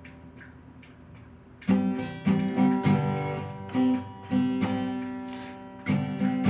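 Guitar music: after a quiet, fading stretch, strummed chords come in about a second and a half in and carry on in uneven strokes.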